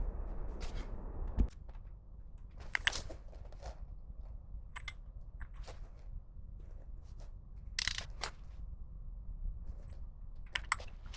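A steady noise that stops with a sharp knock about a second and a half in, followed by scattered clicks and clinks of tools and parts being handled at the workbench.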